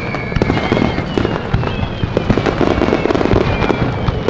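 Fireworks display: many bangs and crackles in quick succession, with thin whistling tones that slowly fall in pitch.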